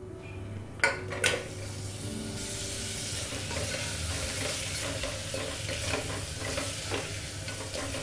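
Goat trotters landing in a pressure cooker with two sharp knocks about a second in, then sizzling in hot ghee with onion and spices while a spatula stirs and scrapes the pot.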